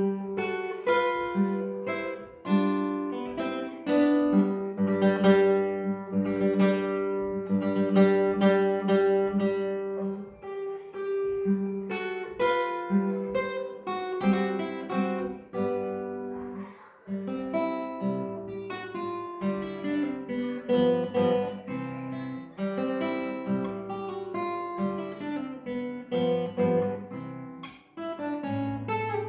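Acoustic guitar playing a waltz: plucked melody notes ringing over bass notes.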